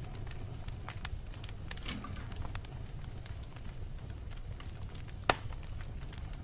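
Wood fire in a fireplace burning steadily with a low rumble and irregular crackles, with one loud pop about five seconds in.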